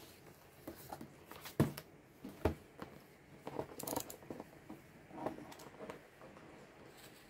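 Packaging and parts being handled during an unboxing: irregular rustling and light clicks, with two sharper knocks about one and a half and two and a half seconds in.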